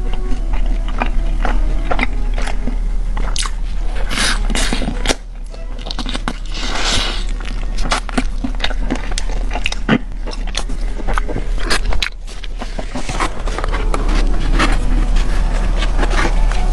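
Close-miked biting and chewing of fried chicken, with repeated crunchy bites and crackling mouth sounds.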